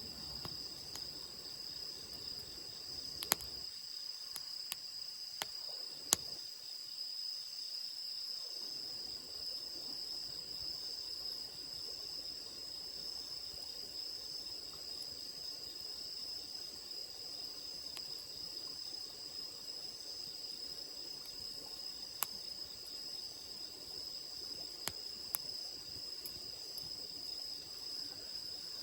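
Insects chirring in one steady high band, with a few sharp pops and crackles from a wood campfire.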